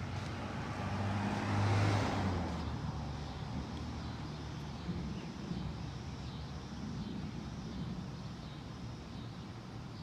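A car driving past, its engine and tyre noise rising to a peak about two seconds in and then fading away.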